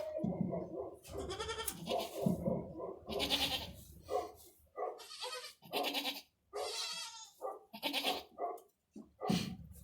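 Goats bleating over and over, many short calls one after another: a doe in labour and her newborn kids.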